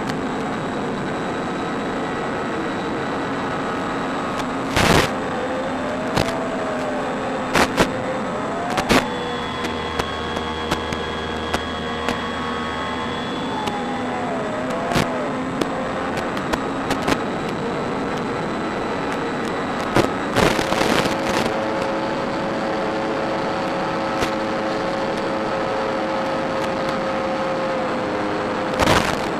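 Electric motor and propeller of a Durafly Bf 109 E-4 RC model plane running steadily in flight, its whine gliding up and down in pitch as the throttle changes. Short loud crackles break in a few times.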